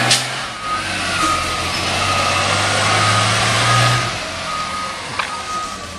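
Garbage truck backing up: its reverse alarm beeps about one and a half times a second over the engine's hum. The engine drops in level about four seconds in, and a sharp knock sounds at the very start.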